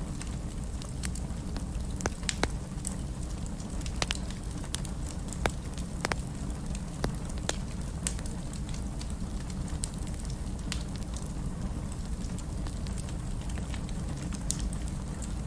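Fire burning in a fireplace, crackling: irregular sharp pops and snaps, a few a second, over a steady low rumble of flames.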